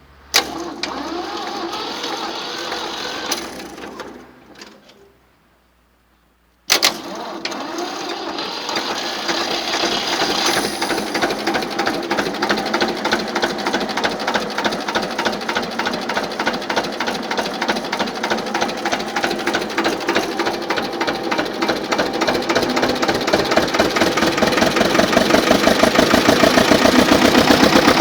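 1953 Güldner tractor's diesel engine running with a rapid, even knocking beat. It starts abruptly, dies away after about four seconds, and after a short silence comes back in abruptly and grows louder toward the end.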